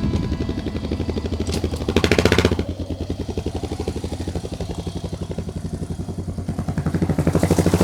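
Yamaha XT 600 K's single-cylinder four-stroke engine running with an even, rapid pulsing beat, getting louder about two seconds in and again near the end as the revs rise.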